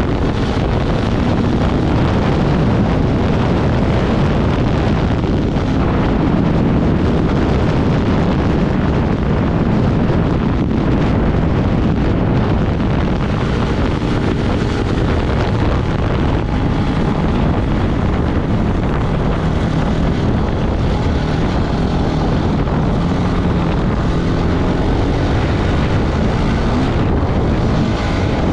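Off-road motorcycle engine running under way, its pitch wavering up and down, buried in heavy wind noise on the microphone.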